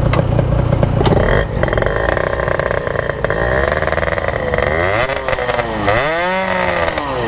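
Yamaha RX-King two-stroke single-cylinder motorcycle engine running and being revved, its pitch falling and rising several times in the second half. The rider suspects a holed piston or a torn reed-valve petal.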